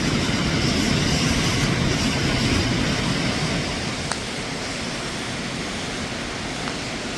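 Steady rush of flowing water, loud and even, easing slightly about halfway through.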